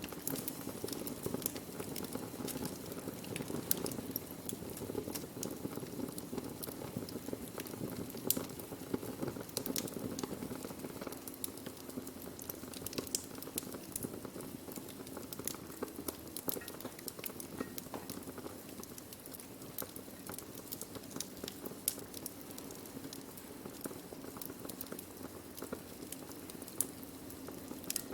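Wood fire burning: a steady low rush of flames with frequent sharp, irregular crackles and pops from the burning wood.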